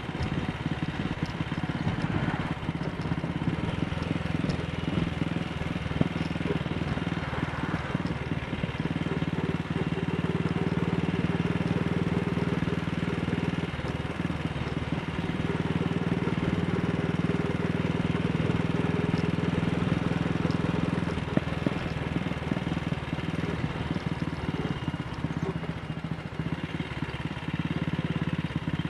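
AJS Model 8 single-cylinder motorcycle engine running steadily under way, its note shifting a few times as the throttle changes.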